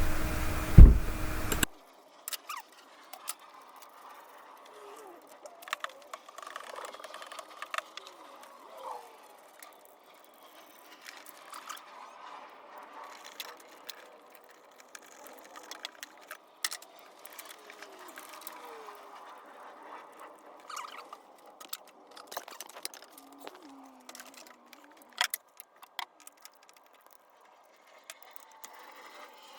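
Hand tools and loose bolts clicking and clinking against metal while valve cover bolts come off an engine, with light rattling between the clicks. A single loud knock comes about a second in.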